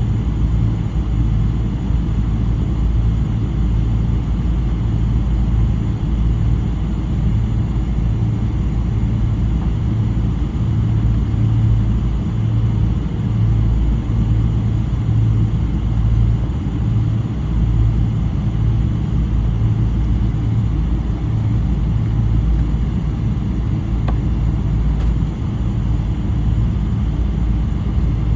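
Steady loud cabin rumble of a Boeing 777-300 with Rolls-Royce Trent 800 engines, heard from inside the rear cabin at a window seat.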